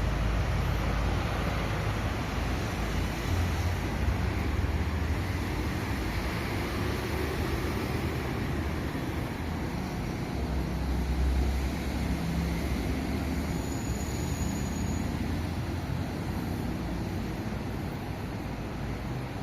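Recife Metro train running at the station: a steady rumble of rolling stock and rail noise that swells and eases, with a brief high thin squeal about two-thirds of the way through.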